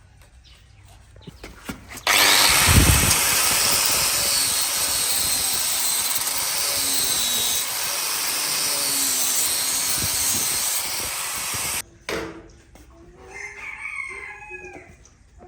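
A loud, steady rushing hiss from a workshop tool starts abruptly about two seconds in and cuts off suddenly near the end, followed by quieter pitched calls.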